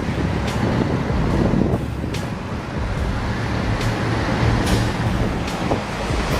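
Heavy machine engine running steadily, with sharp ticks about once a second over it.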